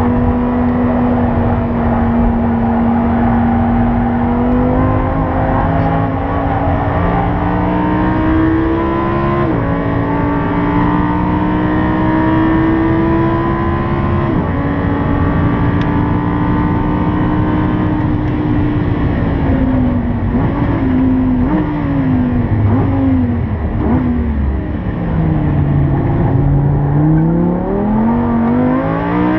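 Lamborghini Huracán's V10 heard from inside the cabin at full throttle on a track straight: its note climbs and drops suddenly at two upshifts. It then goes down through several quick downshifts under braking to a low note, and climbs again as the car accelerates out of the corner near the end.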